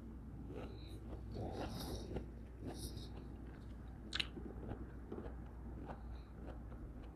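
Close-miked chewing of a mouthful of cantaloupe, with soft wet mouth sounds and a sharp click about four seconds in.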